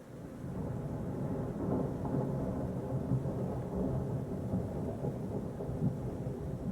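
Thunder rolling: a low rumble that builds over the first second or so and carries on without a break.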